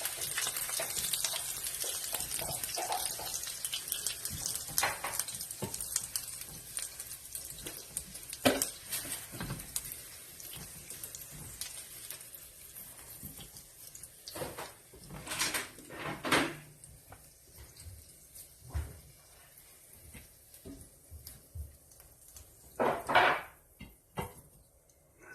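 Kitchen work: a steady hiss of water fades out over the first half, then scattered clinks and clatters of dishes and utensils, the loudest about halfway through and again near the end.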